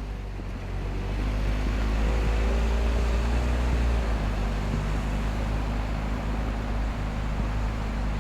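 A vehicle's engine running with steady road noise and a low hum, growing louder about a second in and easing off slightly around four seconds.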